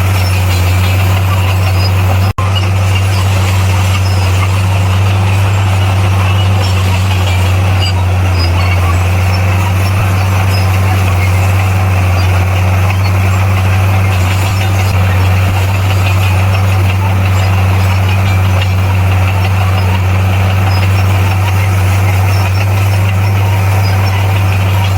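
Bulldozer's diesel engine running steadily with a deep, even drone; the sound drops out for a split second about two seconds in.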